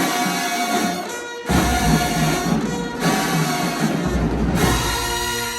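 Marching band playing a run of long, loud held brass chords, each lasting a second or two, with heavy bass drums coming in about a second and a half in.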